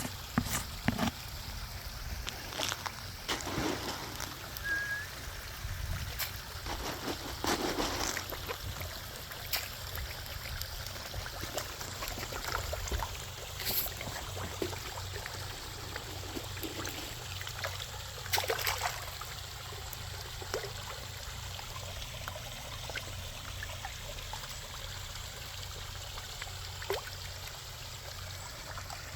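Pond waterfall trickling and splashing steadily, with a sharper splash or click now and then.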